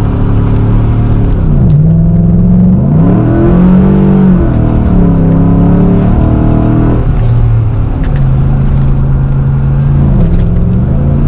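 Chevy Silverado pickup engine, with a welded aftermarket muffler, accelerating hard from a stop. The revs climb and then drop at each upshift, about two seconds in, about four and a half seconds in and about seven seconds in, and the engine holds a steadier note near the end.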